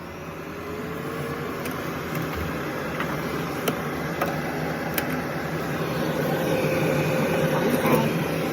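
Laser back-glass removal machine powering up: a steady fan-like hum that grows louder, with a faint tone rising in pitch in the first couple of seconds and a few light clicks.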